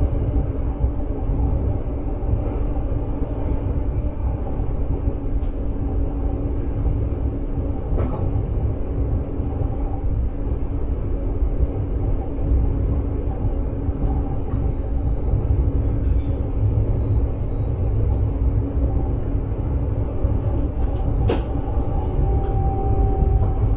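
Steady running rumble inside the cab of a Sprinter electric passenger train under way, with a constant hum over it and a few sharp clicks near the end.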